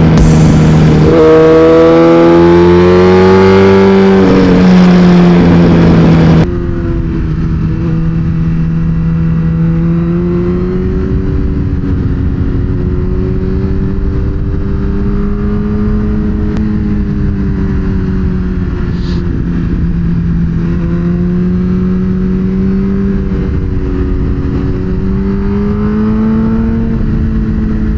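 Suzuki GSX-R1000R's inline-four engine running under way, its revs rising and falling gently through the bends. A rushing hiss over it cuts off suddenly about six seconds in, and the engine carries on alone.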